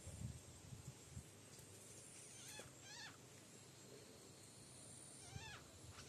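Faint, short chirping animal calls, heard a few times, with a couple of soft low thumps near the start.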